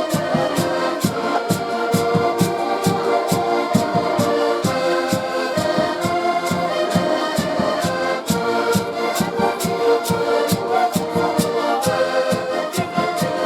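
Band music with a steady beat of about three strokes a second under held melody notes.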